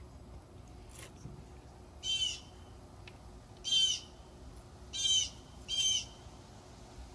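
A bird calling outside: four short calls, the last two close together, over a low outdoor background.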